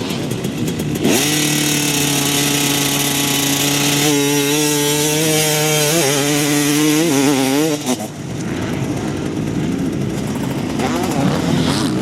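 Motocross motorcycle engine running at high revs, held steady for a few seconds, then wavering up and down with the throttle before cutting out about eight seconds in. A rougher mix of engine noise follows.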